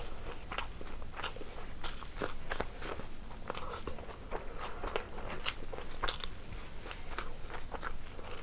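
A person biting and chewing food close to the microphone, with irregular crunchy clicks several times a second.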